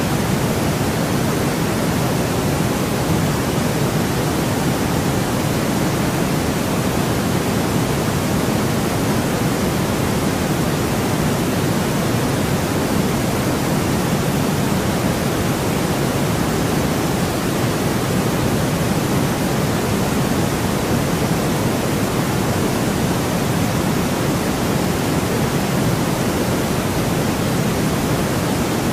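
Continuous synthetic white noise: a steady, even hiss that never changes. Its weight sits toward the lower range, giving a soft rushing quality.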